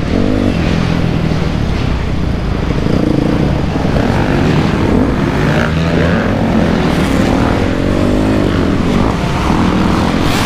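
2008 Honda CRF250R's single-cylinder four-stroke engine being ridden hard, its pitch rising and falling over and over as the throttle is opened and closed and the gears change.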